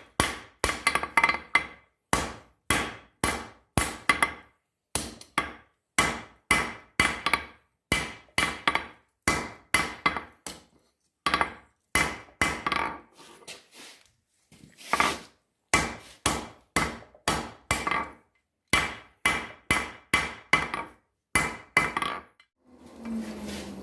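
Blacksmith's hammer striking hot square steel on an anvil, a steady run of blows about three a second, each with a bright metallic ring. The hammering pauses briefly twice and stops near the end, where a steady rushing noise begins.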